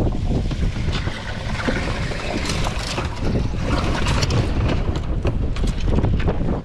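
Wind buffeting the microphone with a heavy low rumble, plus scattered short knocks and rustles.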